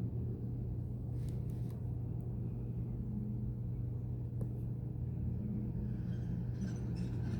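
A steady low machine hum, like an idling engine, with a few faint clicks.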